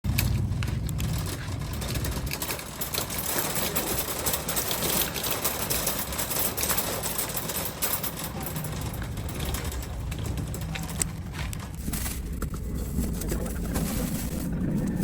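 Steady low rumble of a moving vehicle with even road or wind hiss.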